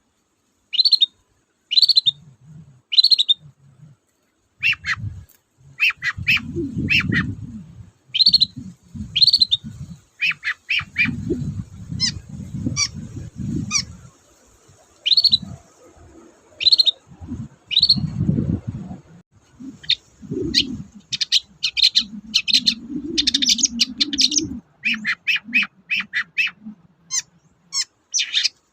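Long-tailed shrike (cendet) singing: short, sharp high notes, about one a second at first, then in quick runs that speed up near the end. Patches of low rumbling noise sit underneath.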